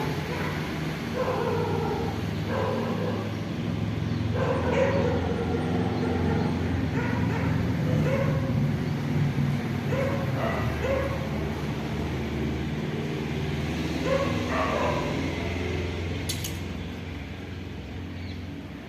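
A dog barking repeatedly, a short bark every second or two, over a steady low rumble.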